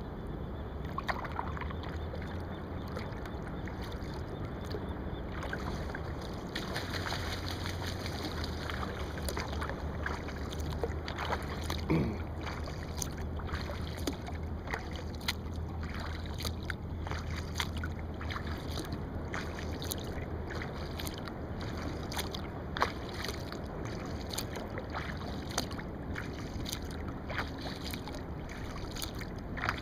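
Kayak paddle strokes dipping and splashing in the water, with many small irregular drips and splashes over a steady low hum.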